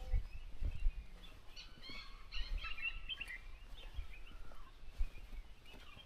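Birds chirping and twittering, busiest from about one and a half to three and a half seconds in, over a low rumble with a few soft bumps.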